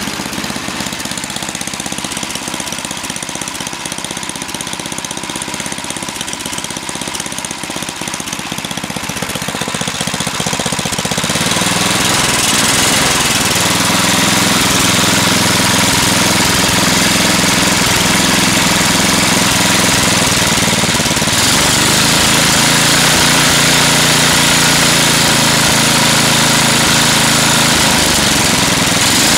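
Small gasoline snowblower engine running steadily. About eleven seconds in it gets noticeably louder and stays louder.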